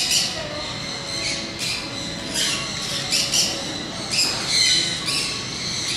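Birds chirping and squawking: short, high calls repeated irregularly several times a second over a faint, steady high tone.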